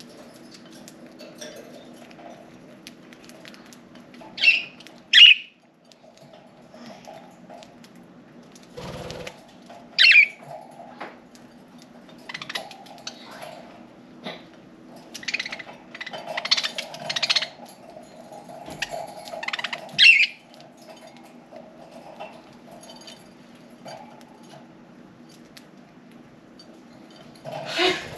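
Budgerigars chirping: a few loud, sharp calls (a pair about five seconds in, one near ten seconds, one near twenty and one at the end), with softer warbling chatter in between. A steady low hum runs underneath, and there is a dull knock about nine seconds in.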